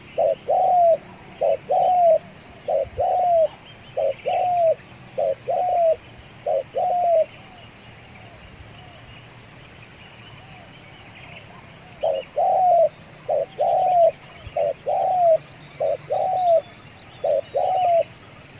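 Spotted dove (tekukur) cooing: a repeated phrase of a short clipped note followed by a longer arched coo, in one run of about seven seconds and another of about six seconds, with a pause of about five seconds between. A faint steady high-pitched hum and faint chirps of other birds sit underneath.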